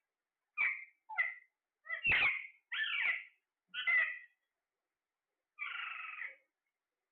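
A parrot calling: about six short calls spread over a few seconds, the last one longer.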